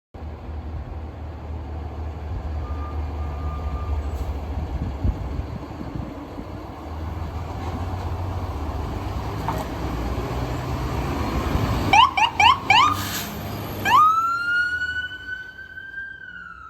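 Fire engine's diesel engine running with a steady low rumble, then four quick rising siren chirps, after which the electronic siren sweeps up into a long wail that begins to wind down near the end.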